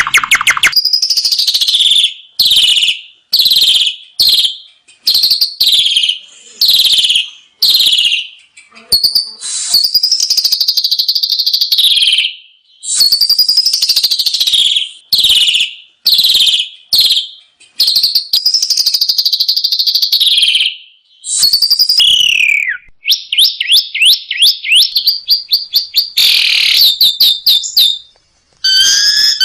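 Asian pied starling (jalak suren) singing a loud, varied song of whistled phrases that sweep and slur downward, broken by short pauses. In the last third the song turns into a fast series of short, sharp notes, and just before the end a different, evenly pitched repeated call begins.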